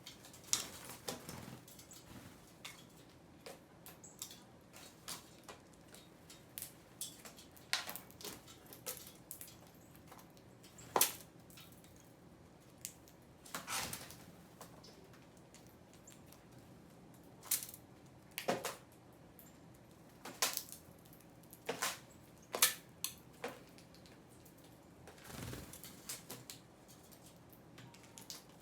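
Irregular sharp taps and clicks, sometimes several in quick succession, with a couple of longer scuffs: birds pecking at seed.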